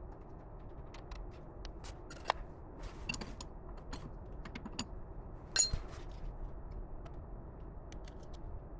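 Scattered light clicks and knocks over a low steady hum. The loudest knock comes just past halfway, with a sharper click a little earlier.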